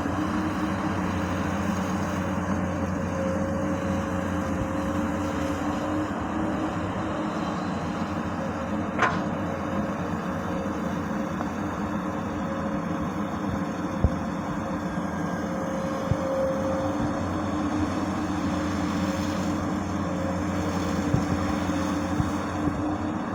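Komatsu PC200 hydraulic excavator's diesel engine running steadily under working load, with a few short sharp knocks scattered through.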